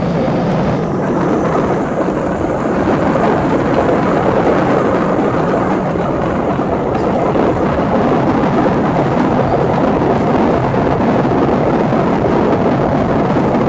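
Airliner noise from jet engines and rushing air, a loud steady rush.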